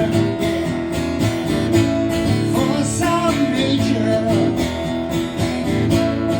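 Live rock song played instrumentally, led by a strummed acoustic guitar with a steady beat.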